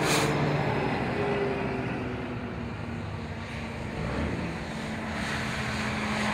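Tow trucks driving past, their engines running steadily under a wash of traffic noise.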